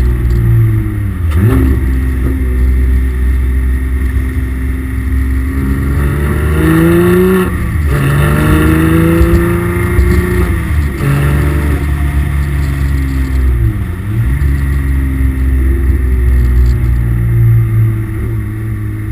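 Porsche 911 GT3 (991.2) naturally aspirated flat-six with an FI valved exhaust, accelerating hard. Its pitch climbs in long sweeps and drops sharply several times as the six-speed manual changes gear.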